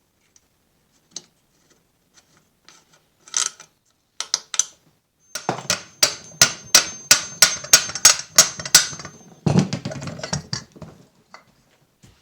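A hammer tapping on metal engine parts, a quick even run of sharp strikes about four a second with a high ring under them, then a heavier clatter of metal near the end, as the old engine is knocked apart.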